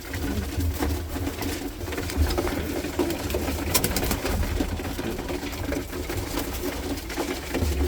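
Roller pigeons cooing steadily in a loft, with a few sharp clicks now and then.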